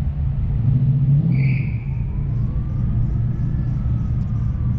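565-cubic-inch big-block Chevrolet V8 in an HQ Monaro running with a steady low rumble and a slowly rising note as the car drives around.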